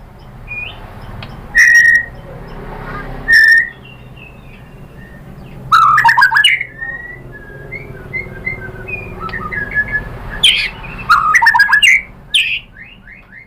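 White-rumped shama singing: loud whistled notes and rapid squawky phrases in bursts, with softer chirps between them, over a steady low hum.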